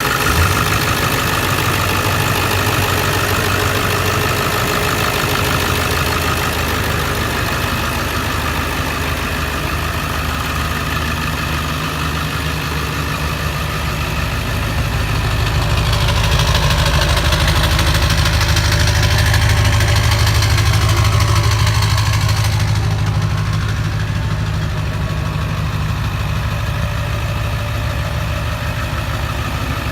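A lifted truck's engine running at a steady idle. It grows somewhat louder, with more hiss, for several seconds past the middle, then settles back.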